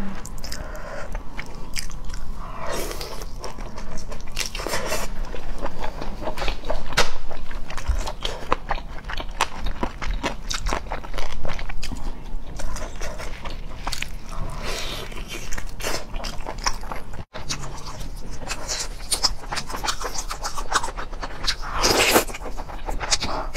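Close-miked eating of braised pork ribs by hand: biting, tearing meat off the bone and chewing, heard as many small clicks and short bursts, with a brief cut-out about seventeen seconds in.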